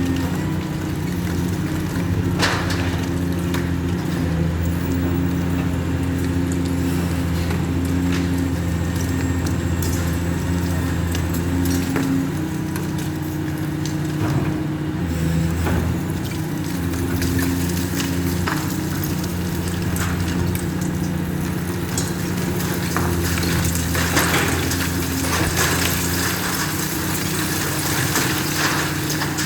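Diesel engine of a large demolition machine running steadily under load, with scattered cracks and crunching of material being broken, heaviest about 24 to 26 seconds in.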